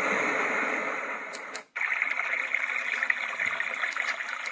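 Small white noise machine playing its thunderstorm track, a steady rain-like hiss through its little speaker. Its button clicks and the sound cuts out for an instant about a second and a half in, then the next track starts, a running-water hiss.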